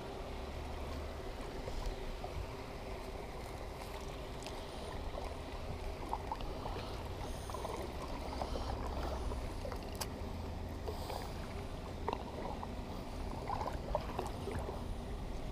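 Water sloshing and small splashes around a kayak, with scattered light knocks and a low rumble underneath.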